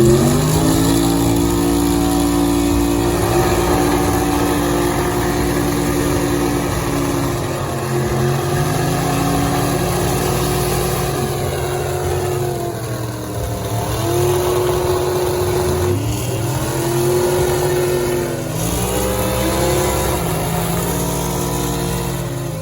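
A truck engine run at high revs. Its pitch climbs at the start and holds steady, then dips and climbs back again several times in the second half.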